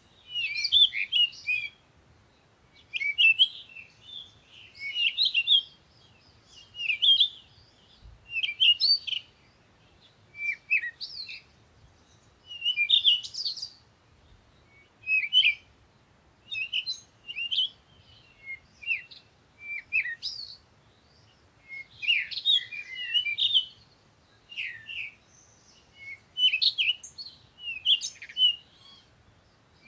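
Small birds chirping: short phrases of quick, high twittering notes, one every second or two, with near quiet between them.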